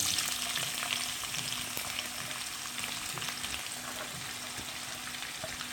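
Finely chopped onions dropped into piping-hot oil in a wok, sizzling as they fry. The sizzle starts suddenly and eases a little as it goes on.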